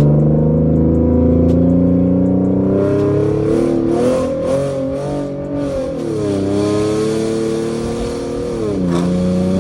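Ford Mustang V6 running through a straight-piped exhaust with a catted X-pipe and no mufflers or resonators, heard while driving. The note holds steady, climbs and wavers in the middle, drops back about six seconds in, then dips sharply near the end before settling.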